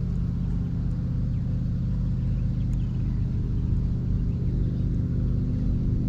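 An engine running steadily at a constant speed: a low, even hum that holds one pitch throughout.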